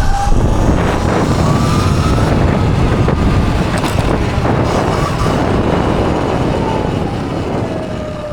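Electric dirt bike's motor whining under hard acceleration over heavy wind buffeting on the microphone. The whine climbs in pitch early on and then falls away over the last couple of seconds as the bike slows.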